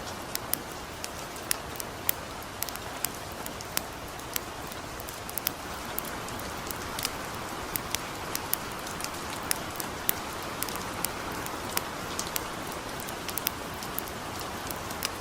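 Light rain falling steadily with a campfire crackling, sharp irregular pops scattered over the hiss.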